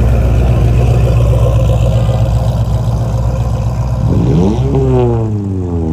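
Car engine running with a deep steady rumble, then about four seconds in it accelerates hard: the pitch climbs steeply, drops back as it shifts gear, and climbs again near the end.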